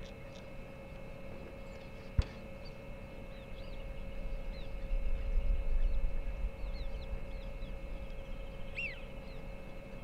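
Wetland outdoor ambience from a fixed wildlife camera: many faint, short, high bird calls and whistles scattered through, with a stronger curved call near the end, over a steady electrical hum. A low wind rumble on the microphone swells in the middle and is the loudest part, and a sharp click comes about two seconds in.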